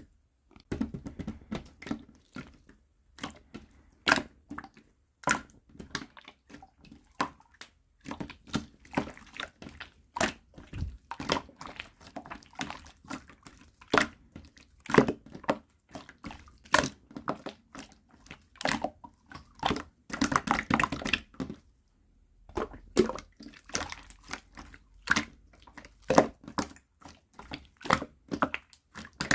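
Clear slime being worked by hand, making an irregular run of wet clicks and pops, with a few short pauses.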